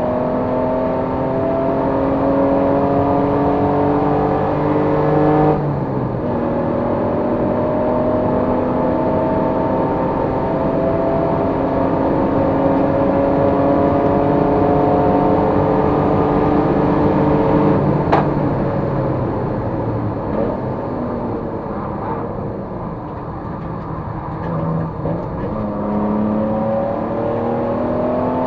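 Race car engine at full throttle climbing through the revs, with a drop in pitch at an upshift about six seconds in and then a long pull. A sharp click comes about eighteen seconds in, after which the revs fall away and the engine runs quieter and lower before it pulls up again near the end.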